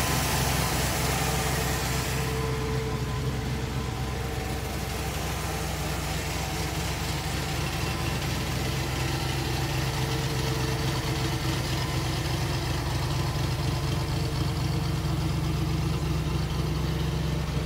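1961 Corvette's carbureted 283 small-block V8 idling steadily with the hood open, not long after a cold start.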